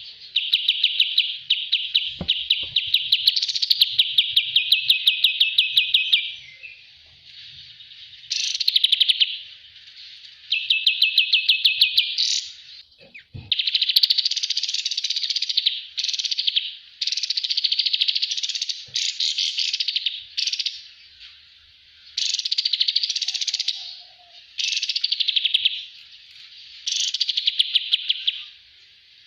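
Kapas tembak bulbul singing: a run of fast, chattering trilled phrases, each one to several seconds long, repeated with short pauses between them.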